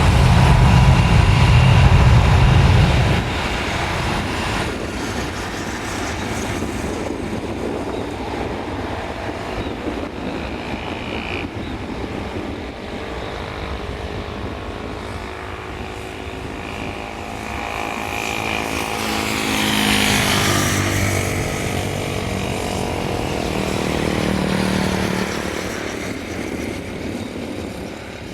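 Aircraft engines passing, the sound building to a peak about two-thirds of the way through with a whine that rises and falls away, then fading. A loud low rumble fills the first few seconds.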